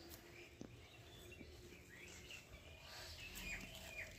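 Faint outdoor ambience with a few short bird chirps, scattered around the middle and near the end.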